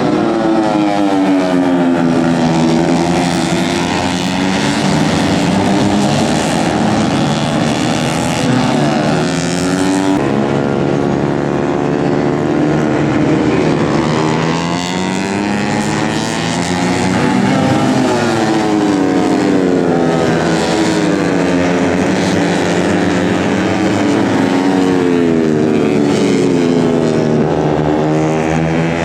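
Tuned 130 cc four-stroke underbone race motorcycles running hard at high revs, several at once, their engine notes climbing and then dropping again and again as they accelerate and pass by.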